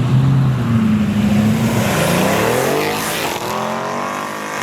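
Performance car engine accelerating hard: a steady low engine note for about two seconds, then the pitch climbs quickly and holds high.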